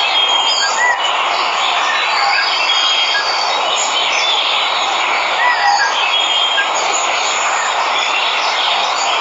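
Steady rush of a waterfall, with birds giving short chirps and whistles over it.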